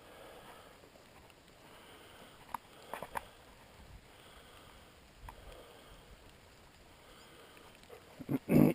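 A dog barks loudly near the end, in a couple of quick, deep barks. Before that there are only faint sounds of movement and a few small clicks.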